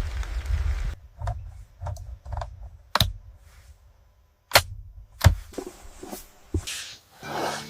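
Steady rain cuts off about a second in, followed by a handful of sharp clicks and light knocks with quiet between them.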